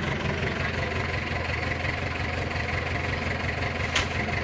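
An engine running steadily at idle, with one sharp click near the end.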